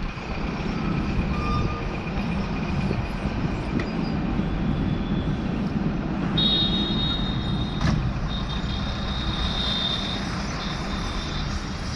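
Steady low rumble of a truck running. High-pitched electronic tones sound over it from about six seconds in, with brief breaks, lasting about five seconds.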